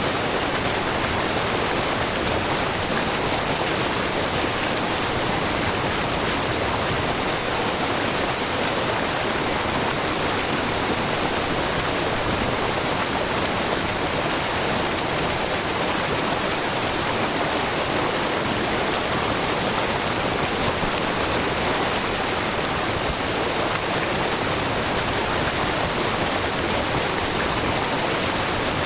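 Wide, low waterfall falling as many thin streams of spring water down a rock face into a pool: a steady, even rush of splashing water.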